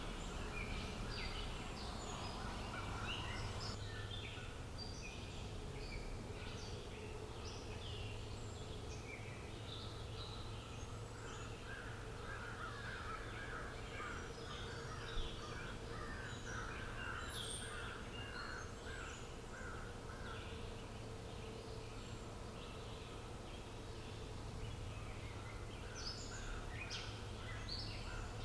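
Outdoor birdsong: many birds chirping and calling in short notes, with a run of repeated lower calls through the middle, over a steady low hum. A single sharp click about halfway through.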